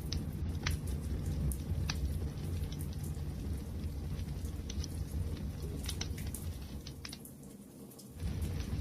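Wood fire crackling: a low steady rumble of flames with scattered sharp pops and snaps. The sound drops lower for about a second around seven seconds in, then comes back at full level.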